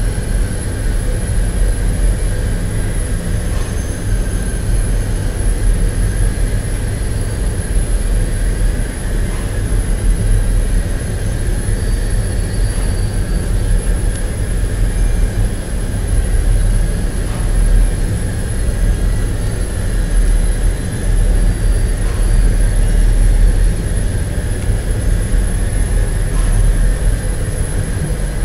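Steady, loud industrial machinery noise: a constant low rumble with a faint steady whine above it.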